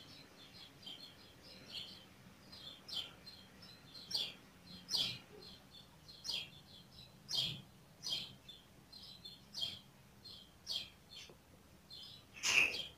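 Small birds chirping busily in quick, short notes, with louder sharp chirps about once a second, the loudest near the end.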